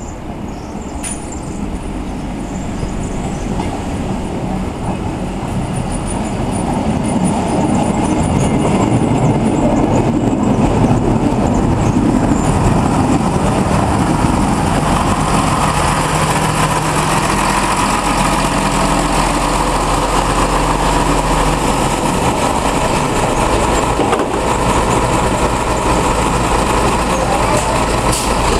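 Circumetnea ADe 20 diesel railcar hauling hopper wagons approaches and runs past close by. Its engine and wheels on the rails grow louder over the first several seconds, then hold as a steady loud rumble with an engine hum.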